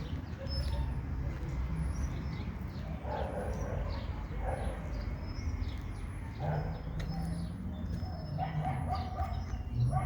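Birds chirping with repeated short high calls over a steady low rumble, with a few short, louder animal calls mixed in.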